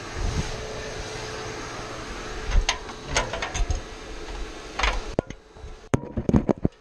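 Bee vacuum running steadily with a low hum, with several knocks and thumps of handling over it; the steady noise drops away about five seconds in, leaving a few sharp clicks and thumps.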